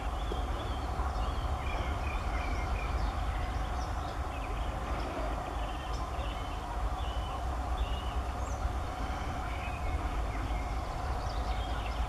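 Small birds chirping, short high notes repeated again and again over a steady low rumble.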